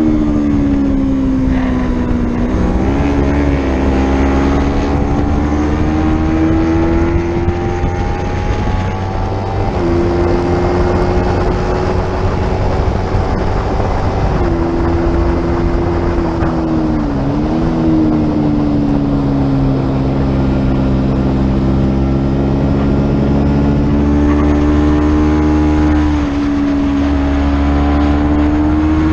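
Small-displacement racing motorcycle engine at high revs, its pitch rising and falling and stepping abruptly several times as it shifts gears and changes speed, over a steady rush of noise.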